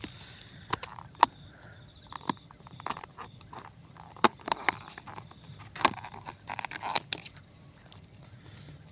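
Irregular sharp clicks and crackles, coming in a quick cluster about four to seven seconds in.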